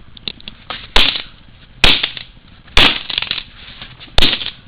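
A toy car being smashed with four sharp, hard blows, each a crack followed by a brief clatter.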